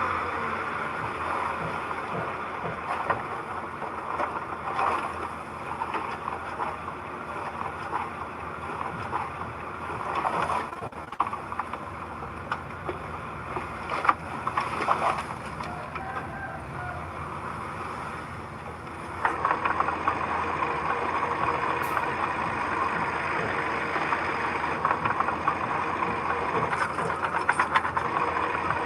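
Diesel engine of heavy earthmoving machinery running steadily under work, with scattered knocks and clanks; the engine sound gets abruptly louder and denser about two-thirds of the way through.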